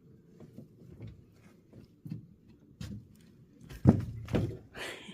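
Scattered knocks and clunks, the two loudest close together about four seconds in, followed by a brief hiss.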